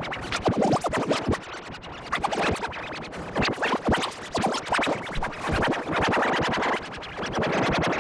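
Heavily distorted, effect-processed audio with rapid stuttering chops, like record scratching, dense and noisy throughout.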